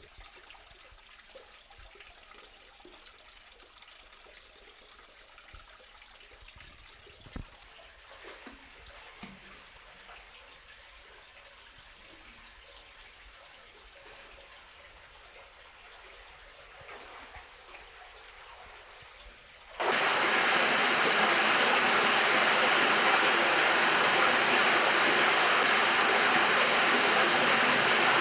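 Faint, quiet ambience with a few soft knocks, then, about twenty seconds in, an abrupt switch to loud, steady rushing water from the spring inside the cave tunnel.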